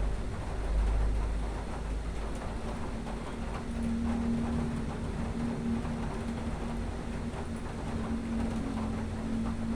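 Thunderstorm ambience: a low rumble of thunder fading during the first second or so over a steady hiss of rain. From about three and a half seconds in, a steady hum joins the rain.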